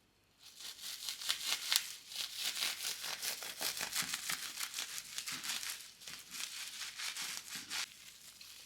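Crinkling and rustling of something being handled: a dense run of small crackles that starts about half a second in and stops shortly before the end.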